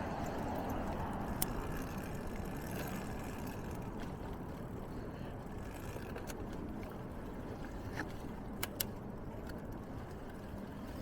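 Steady rumble of a moving bicycle's tyres and wind on the microphone, with a few sharp clicks, two of them close together about two thirds of the way in.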